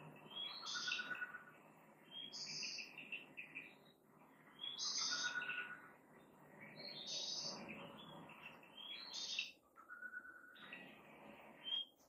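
A songbird singing short, high phrases again and again, about one every two seconds, over a soft background hiss. It stops suddenly near the end.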